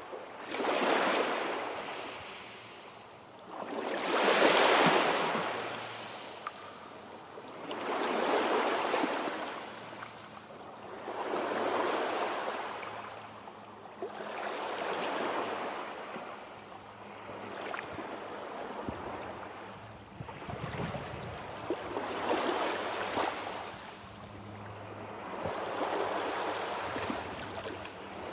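Sea waves breaking and washing up the shore, each surge swelling and fading in a slow rhythm about every three to four seconds. The loudest surge comes about five seconds in, and the later ones are softer.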